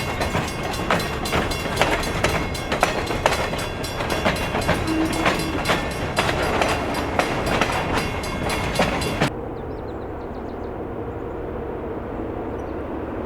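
Freight train rolling past, its wheels clacking and clicking over the rail joints. About nine seconds in the sound cuts abruptly to a steady, duller rumble.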